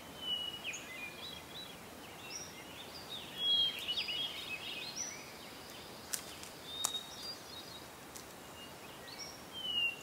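Woodland birds chirping and calling: many short high notes and quick sweeping whistles, with a few sharp clicks about six and seven seconds in.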